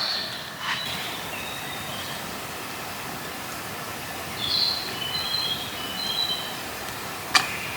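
Birds calling with short high whistled notes, a first group in the opening two seconds and a second, louder group about halfway through, over a steady hiss of background noise. A single sharp click comes near the end.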